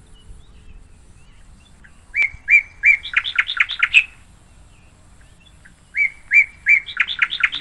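A bird singing two phrases, the first about two seconds in and the second near the end. Each phrase opens with a few evenly spaced clear notes, then runs into a quicker series of notes.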